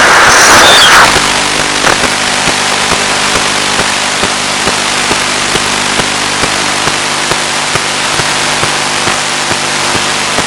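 Steady radio hiss on the audio channel of an FPV plane's 1.3 GHz analogue video link, with a low steady hum and faint clicks under it. A louder band of noise with thin whistling tones stops about a second in.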